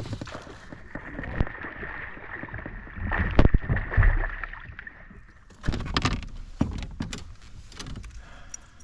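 Knocks and thumps on a fishing kayak's hull as the angler moves and handles gear, with a steady high whine through the first half that stops about five and a half seconds in.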